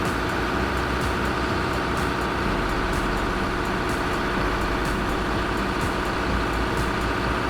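Heavy machine's engine running steadily, with an even, unchanging drone.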